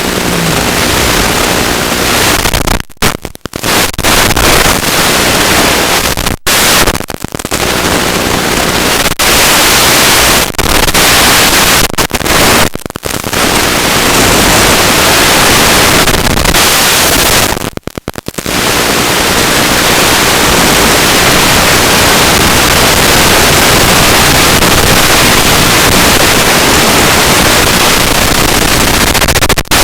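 Loud, steady hiss across all pitches, cut by sudden short dropouts about 3, 6, 7, 13 and 18 seconds in.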